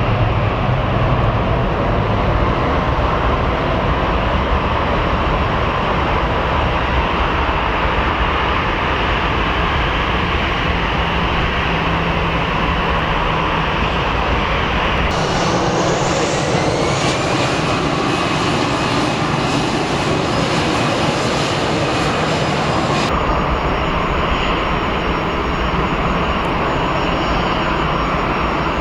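Jet airliner engines running at takeoff power. First comes a Jet2 Boeing 737-300 with CFM56-3 engines, then an easyJet Airbus A320 with CFM56-5B engines. The sound changes abruptly about halfway through, and a rising whine is heard after the change.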